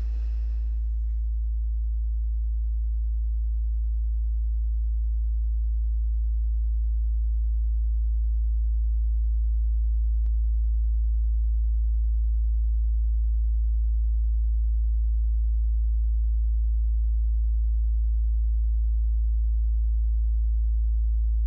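A deep, steady low drone like a pure tone, swelling slowly louder, with a single faint click about ten seconds in.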